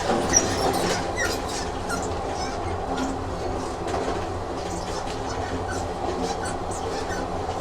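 Train running on rails: a steady rumble with frequent small clicks and rattles, and a sharper knock about half a second in.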